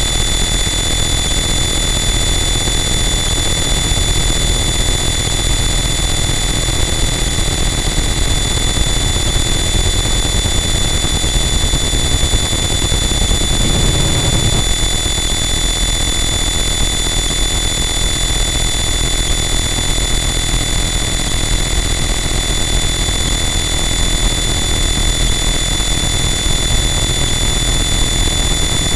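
Harsh noise wall: a loud, static wall of distorted noise with steady high whining tones and a heavy low rumble, barely changing, with a brief low swell about halfway through.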